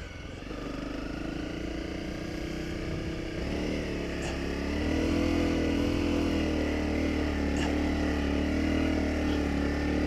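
Honda CRF250 Rally's single-cylinder four-stroke engine pulling the motorcycle through soft sand. About three and a half seconds in, the engine note steps up in pitch and gets louder, then holds steady.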